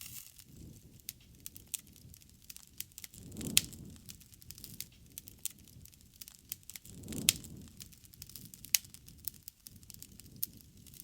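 Campfire crackling and popping: many sharp pops, with two louder low rushing swells, one about three and a half seconds in and another about seven seconds in.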